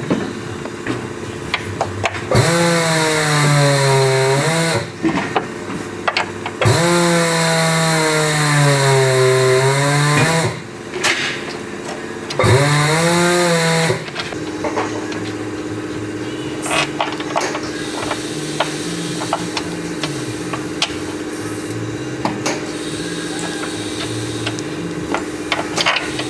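Handheld power tool run in three bursts while working on a car's strut assembly, its pitch sagging under load and recovering in each burst. After the third burst a steady machine hum continues with scattered small metal clicks.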